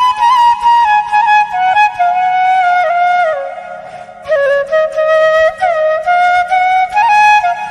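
Background music: a flute playing a slow melody that steps and slides between notes, breaking off briefly a little past the middle before going on.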